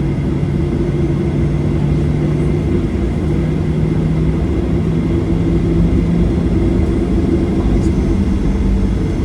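Boeing 737-700's CFM56 jet engines heard from inside the cabin: a steady, loud rumble with a low hum that steps up slightly in pitch a few seconds in as the engines run up.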